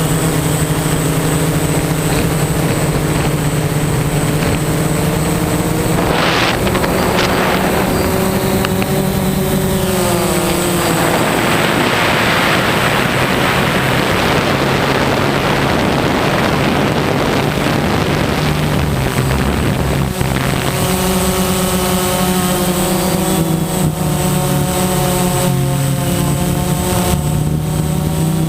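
DJI Phantom quadcopter's four motors and 9-inch propellers humming in flight, the pitch bending up and down as the throttle changes. For several seconds in the middle a loud rush of wind noise mostly covers the hum.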